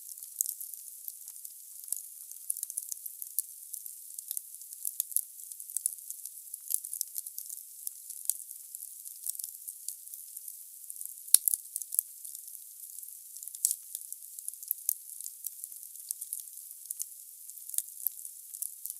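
Wood fire crackling in a fireplace: a steady hiss of burning logs with frequent sharp pops. One louder crack comes about eleven seconds in.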